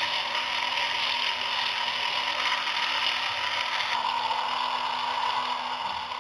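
Small electric motor and gears of a home-made mini tractor mill running steadily with a whirring, clattering gear noise, dying away at the very end.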